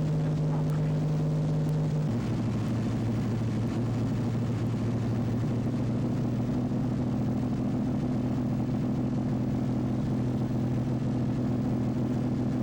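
Steady engine drone with a constant pitched hum, which shifts abruptly to a lower, different hum about two seconds in and then holds steady.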